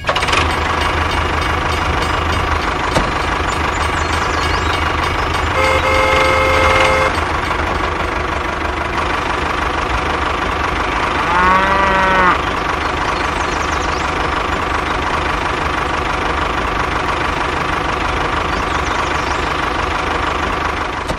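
Steady engine-like running with a low hum. A cow moos once, about halfway through, and a short steady horn-like tone sounds about six seconds in.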